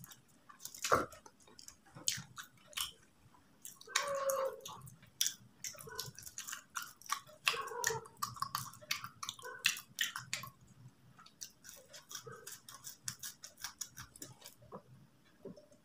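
Close-miked chewing of fried samosa: crisp pastry crackling and wet mouth clicks in irregular bursts.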